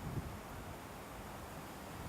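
Wind blowing, with a low gust buffeting the microphone just at the start.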